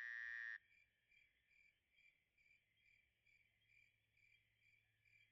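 Crickets chirping faintly in an even rhythm, about two chirps a second, after a held pitched note cuts off about half a second in.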